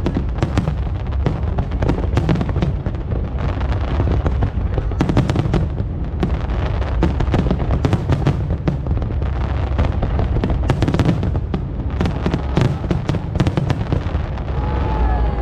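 Aerial fireworks display: rapid, overlapping shell bursts crackling and booming without a break, over a heavy low rumble.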